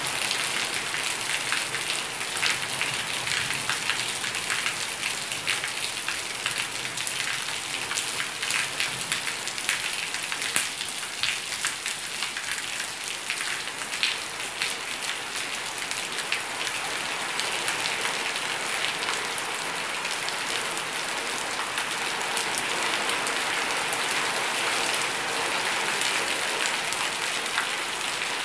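Heavy rain falling steadily: an even hiss with many sharp ticks of single drops hitting close by.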